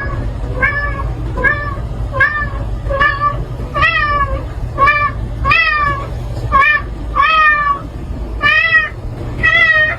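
Domestic cat meowing over and over, about one short meow a second, with a low steady rumble underneath.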